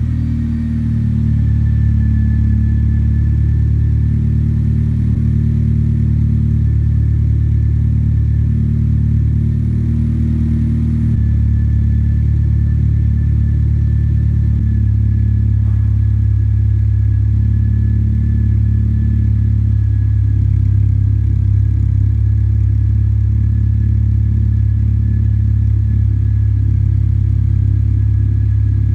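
Mitsubishi Colt CZT's 1.5-litre turbocharged four-cylinder engine idling steadily, its low note shifting slightly about eleven and fifteen seconds in.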